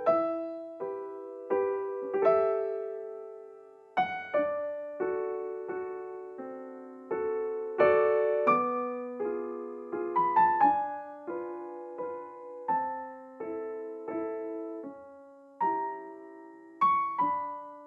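Soft, slow solo piano background music: gentle chords and single notes, each struck and left to fade.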